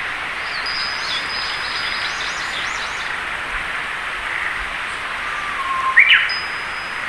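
A recorded nature soundscape: a steady hiss with high bird chirps and trills over it during the first few seconds. A louder short call with a quick upward jump in pitch comes about six seconds in.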